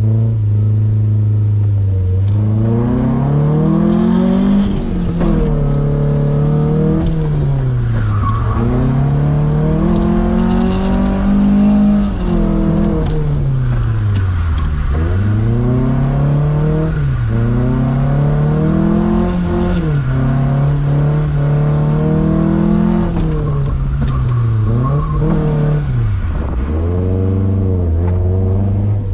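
Drift car's engine being driven hard, its pitch climbing and dropping again and again as the throttle is worked, about every two seconds, settling to a steady note at the start and near the end.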